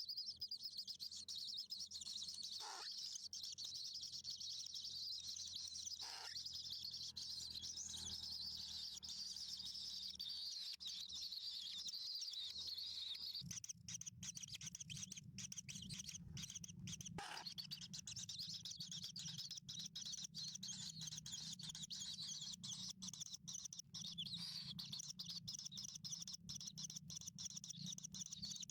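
Small birds chirping, a dense high-pitched chirping that runs on without a break.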